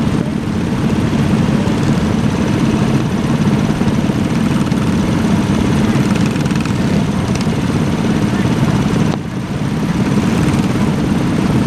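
Small minibike engines running steadily, with a brief dip in level about nine seconds in.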